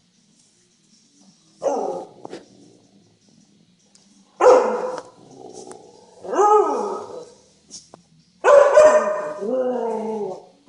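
Siberian huskies vocalizing in play: four loud outbursts of barks and drawn-out calls that rise and fall in pitch, the last and longest lasting about two seconds near the end.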